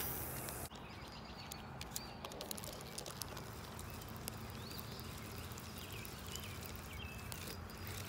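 Quiet outdoor ambience: faint bird chirps and scattered light clicks and ticks over a low steady hiss.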